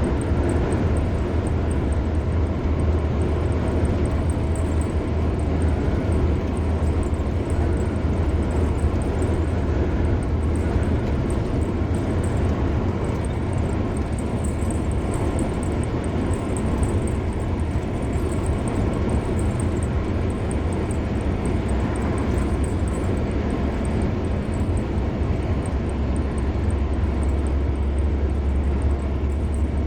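Car driving at speed on a highway: steady tyre and road noise over a deep, constant rumble.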